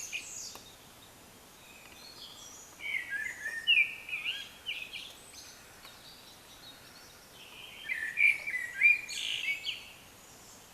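A songbird singing at night: varied phrases of quick notes, each lasting a couple of seconds with pauses of a few seconds between, over a faint steady background hiss.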